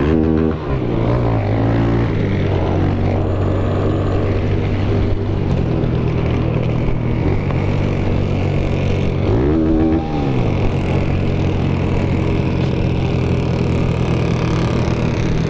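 Motorcycle engines running. One is revved up and back down right at the start and again about ten seconds in, over the steady sound of others idling.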